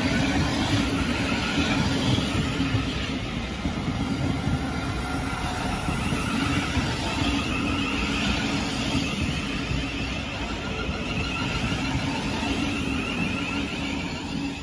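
A Class 700 electric multiple unit passing close by: a steady, loud rush of wheels on rail, with a faint wavering high whine, carriage after carriage.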